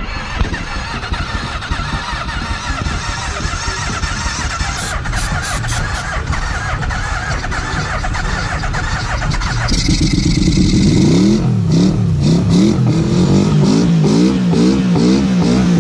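Old motorcycle engines running after being brought back to life with carb cleaner, loud and rough. About ten seconds in, the sound changes to an engine being revved, its pitch rising and falling again and again.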